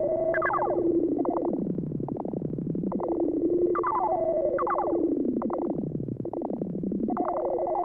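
Electronic music: synthesizer tones gliding quickly downward in repeated chirp-like sweeps over a held low note.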